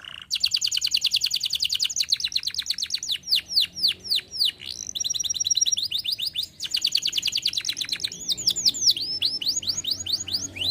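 Domestic canary singing a long, continuous song. It alternates fast trills of rapidly repeated notes with slower runs of falling whistled sweeps.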